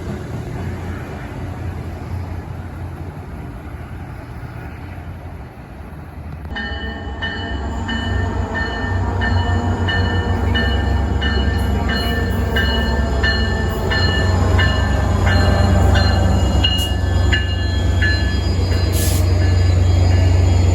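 Train passing close by, its low rumble growing louder. About a third of the way in, a steady high squeal sets in, with regular sharp clicks of wheels over rail joints.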